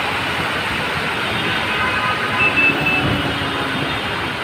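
Steady hiss of rain and wet-road traffic, with the hum of a passing vehicle's engine swelling about three seconds in.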